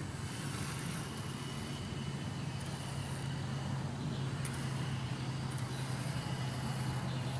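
A steady low hum, like a motor running in the background, with faint hiss above it.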